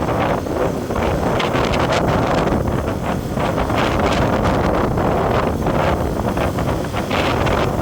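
Wind buffeting the microphone on a moving vehicle, a loud, steady rushing and rumbling with road and engine noise underneath.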